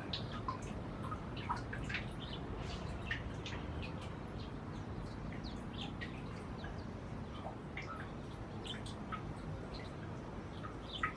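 White-rumped munias giving short, high chirps at irregular intervals, busier in the first few seconds, over steady low background noise.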